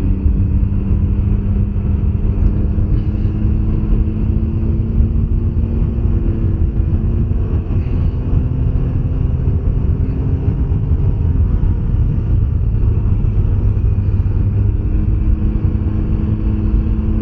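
2021 Can-Am Ryker 900's three-cylinder engine running steadily at cruising speed, its pitch drifting gently up and down, over a heavy low rumble.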